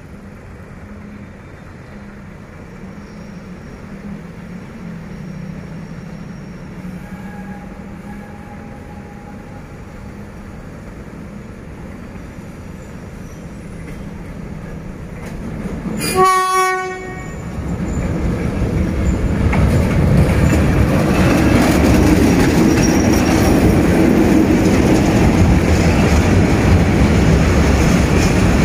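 Diesel freight train approaching, with one horn blast lasting about a second near the middle. After that the locomotive and its freight wagons pass close by, loud and steady.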